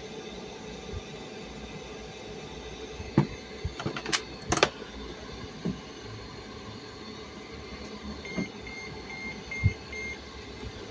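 Several sharp clicks and knocks, then five short, evenly spaced high beeps, about two and a half a second, like a washing machine's control panel beeping, with a low thump among them.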